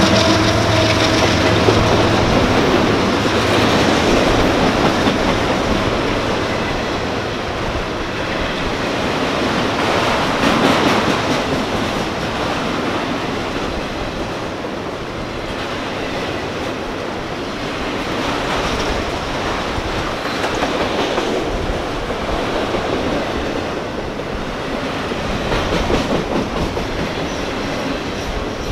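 Freight train of autorack cars rolling past close by: a steady rumble of wheels on rail with clickety-clack over the joints.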